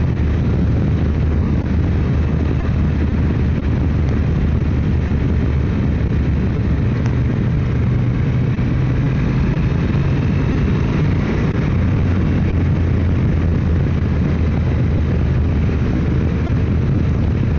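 Motorcycle engine running at a steady cruising speed, a continuous low drone mixed with wind noise.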